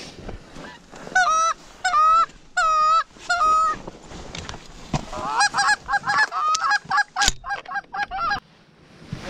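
Canada geese honking: four drawn-out honks in the first few seconds, then a quick run of shorter, choppier honks.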